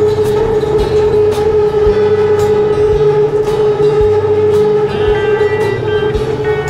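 BTS Skytrain electric train running at steady speed: a steady whine from the traction motors, with regular clicks from the wheels.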